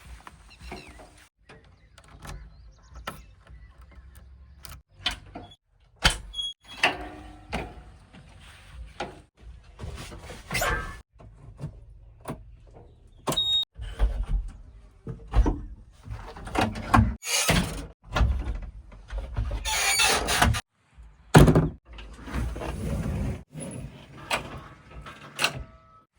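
JCB 3DX backhoe loader at work: a string of clanks, knocks and short squeals over a low engine rumble that comes and goes, broken by several sudden cuts.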